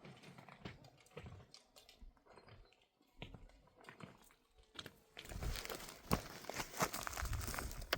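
Dry plants rustling and crackling as they are handled or pulled, with sparse snaps at first that turn into denser, louder crackling from about five seconds in.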